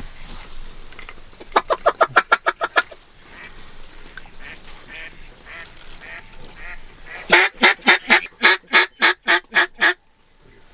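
Mallard duck call blown in quick runs of loud quacks, about nine in the first run and about eleven in a longer run later, with softer quacking between them. It is hen-mallard calling meant to draw passing ducks in to the decoys.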